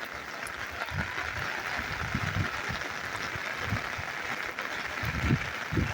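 Steady rain falling, an even hiss, with soft irregular low thumps mixed in.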